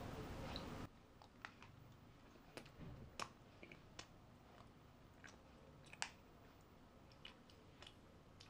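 Faint, irregular mouth clicks and smacks of someone chewing soft sponge cake. A steady hiss cuts off about a second in.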